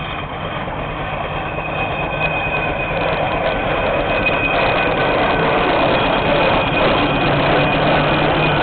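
Steam road engines running in a parade, a steady mechanical noise that grows louder over the first few seconds and then holds.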